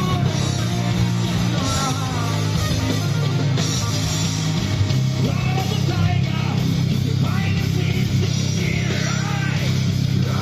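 Loud live rock band playing: distorted electric guitars over bass and drums, with a voice singing at times.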